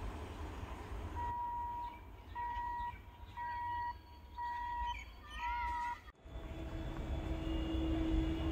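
Low rumble of an approaching EMU local train, with five steady high beeps about a second apart and then a short wavering call over it. The sound cuts off abruptly about six seconds in, and a steady hum with rumble follows.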